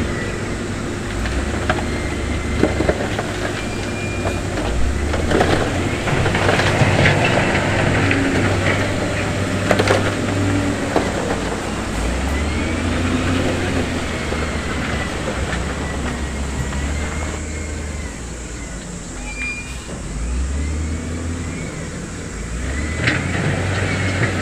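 Heavy diesel construction machinery running, with scattered knocks and clattering from stone being moved.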